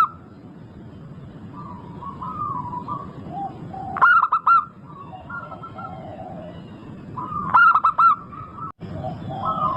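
Zebra doves (perkutut) cooing: groups of three or four quick, loud notes about every three and a half seconds, with softer cooing notes between them. The sound breaks off for a moment just before 9 seconds in.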